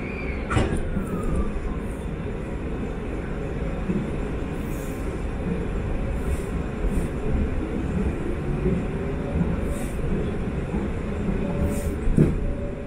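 Cabin noise of a Sanyo Electric Railway 5000 series electric train starting off from a stop and gathering speed: a steady rumble of wheels and running gear. There is a sharp click about half a second in, followed by a short falling tone, and another click near the end.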